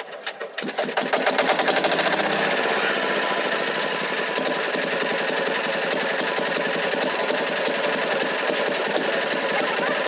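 A machine running up to speed about a second in, then running steadily with a loud, fast, even rattle.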